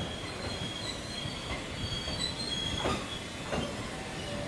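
JR East 251 series Super View Odoriko electric train rolling slowly into a station platform, its wheels letting out several high squeals over a low rumble. Two sharp knocks sound about half a second apart near the three-second mark.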